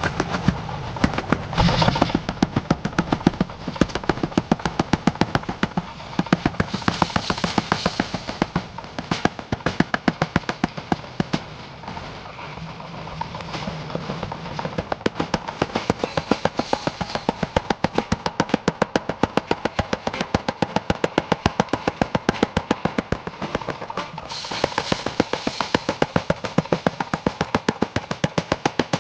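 Rapid, evenly spaced hammer blows on a hot layered-steel billet, about three strikes a second, pausing briefly partway through, with background music under them.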